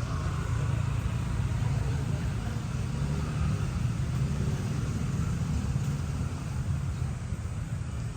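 A steady low rumble of motor-vehicle noise, with no distinct events.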